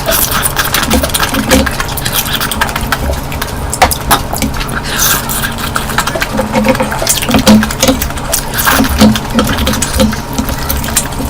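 Eating sounds of curry: wet chewing, smacking and slurping with many short irregular clicks of the mouth and food.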